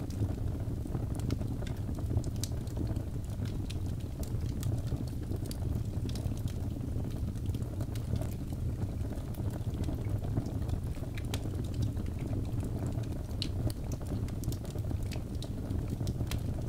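Wood fire burning in a fireplace: a steady low rumble of flames with frequent small, sharp crackles and pops from the burning birch logs.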